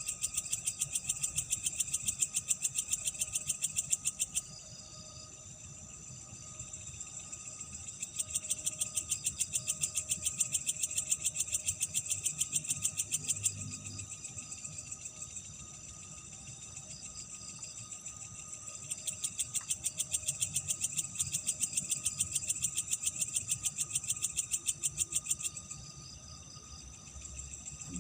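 Night insects trilling in three bouts of rapid, high-pitched pulses, each several seconds long with short lulls between. Fainter insect calls with a steady thin tone carry on underneath.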